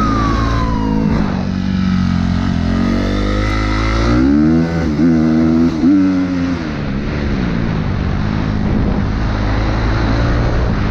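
Vehicle engine running loudly and revving up and down a few times around the middle, with a siren winding down in the first second.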